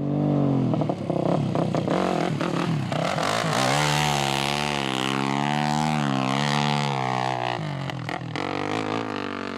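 Yamaha rally motorcycle's engine revving as it rides over desert sand, the pitch dropping near the start and then rising and falling repeatedly with the throttle over a steady rush of noise.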